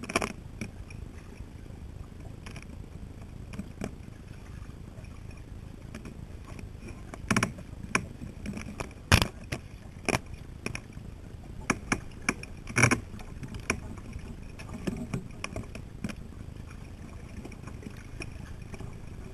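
Irregular sharp knocks and splashes from a kayak on the water, scattered over a steady low rumble. The loudest knocks come about halfway through.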